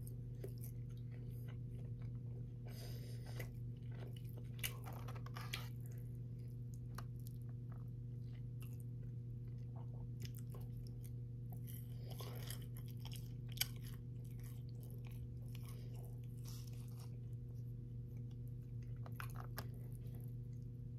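A person chewing and biting breaded fried chicken close to the microphone: soft crunches and wet mouth clicks, with a few sharper clicks along the way. A steady low hum runs underneath.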